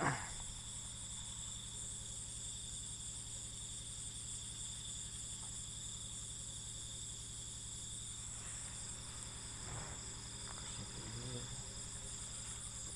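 Night insect chorus, crickets trilling steadily in several high pitches at once, over a low steady hum.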